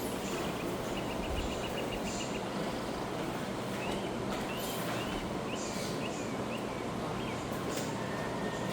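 Small birds chirping: a quick trill of short notes, then a run of short rising chirps, over a steady rushing background noise.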